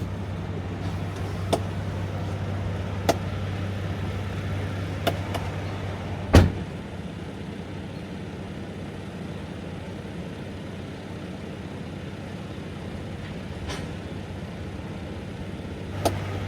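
Semi truck cab noise: a steady low hum and hiss, with a few light clicks and one loud thump about six seconds in, after which the hum drops away and leaves only the hiss until it returns near the end.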